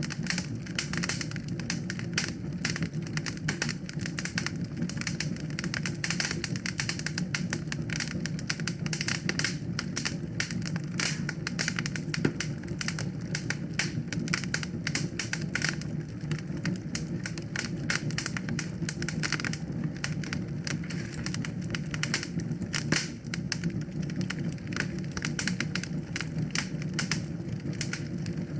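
Wood fire in a fireplace crackling, with dense, rapid pops and snaps over a steady low rumble.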